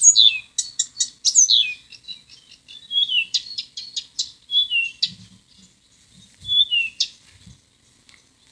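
Birdsong edited from recorded bird-call collections: a dense run of quick chirps and short whistled notes that slide downward, starting abruptly and thinning out in the second half.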